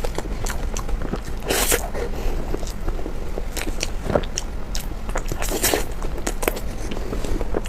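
Close-miked eating: a mouth biting and chewing with wet clicks and smacks, and two louder crunching bites, about a second and a half in and again past the middle.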